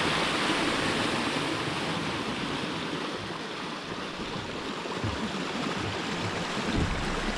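Steady rushing noise of water and wind from a speedboat underway.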